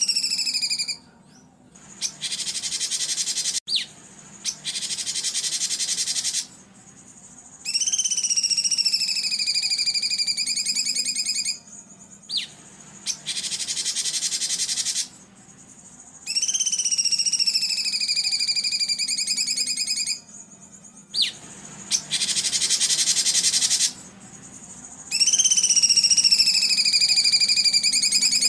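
Recorded songbird song played in a loop: phrases of rapid trilled notes that slide down in pitch for three to four seconds, alternating with harsh, buzzy rasping bursts of two to three seconds, the 'tembakan kasar' notes used to train cage birds. The cycle repeats about three times, over a faint steady low hum.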